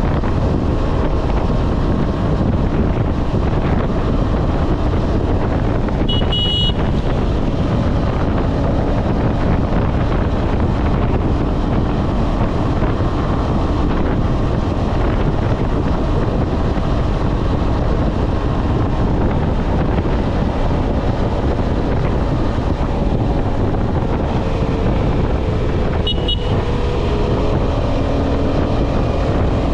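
KTM 250 Adventure's single-cylinder engine running at steady highway speed, buried under heavy wind buffeting on the microphone. Two short high-pitched beeps cut through, one about six seconds in and one near the end.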